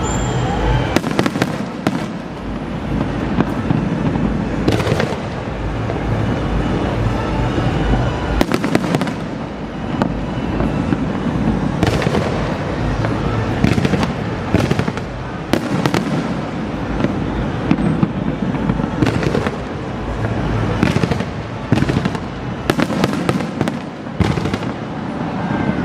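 Fireworks display: sharp bangs and crackling bursts going off at irregular intervals, every second or two, over a continuous low rumble.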